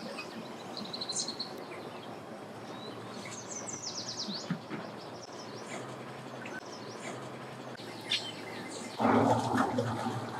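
Small birds chirping and twittering in short bursts over a steady low background hum. About nine seconds in, a louder rushing noise with a low drone begins.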